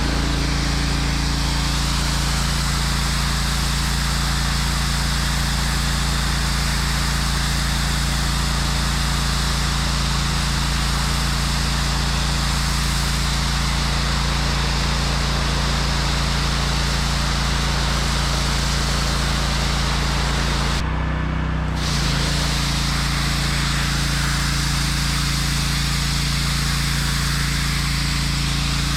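Pressure washer running: the wand's high-pressure water jet hisses against concrete over the machine's steady engine drone. The spray cuts off for about a second roughly two-thirds of the way through, then starts again.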